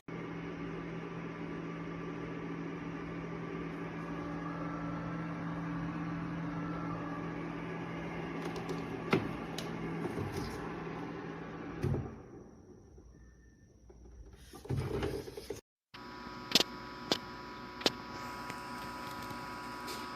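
Small portable dehumidifier running with a steady electric fan hum. Sharp clicks from handling or button presses come at about 9 and 12 seconds and three more in the last few seconds, and the hum drops out briefly around the middle.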